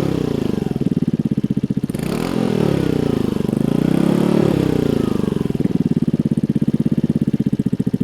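Suzuki Address V125S scooter's single-cylinder four-stroke engine running, a fast even pulse, with the revs rising and falling a few times in the middle before settling back to a steady idle.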